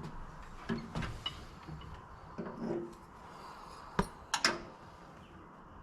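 Irregular knocks and clinks of hand tools and metal hardware being handled and set down, a sharp one about four seconds in.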